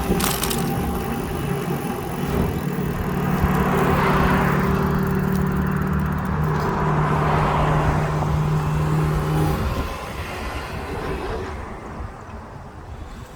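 A motor vehicle's engine running close by, with tyre hiss swelling and fading, over wind rumble on the microphone; the engine hum stops about ten seconds in.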